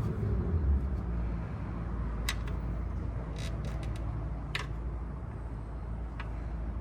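A few sharp clicks and taps from hand work on the carburetors and their rubber intake boots, over a steady low rumble in the background.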